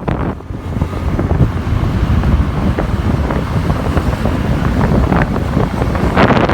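Wind buffeting the microphone on a moving motorbike, over the rumble of the engine and road noise, with a brief lull about half a second in.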